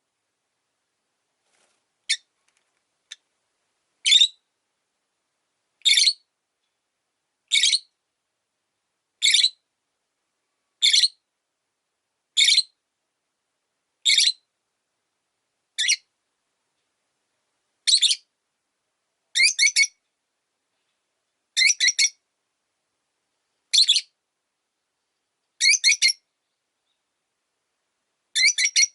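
Rosy-faced lovebird giving shrill, piercing contact calls about every two seconds, the later calls coming as quick doubles or triples.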